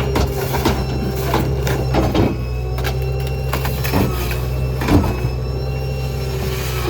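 Small rear-load garbage truck (New Way Diamondback on a Ford F-550) running with a steady engine drone and hydraulic whine, with repeated sharp cracks and knocks from debris in its hopper.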